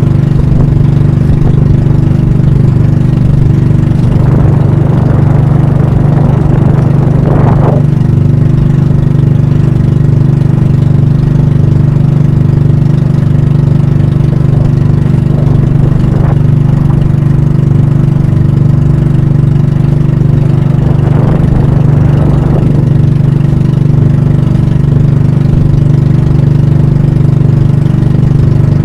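Banka (pump boat) engine running loud and steady at a constant speed, with a brief rushing noise twice over it.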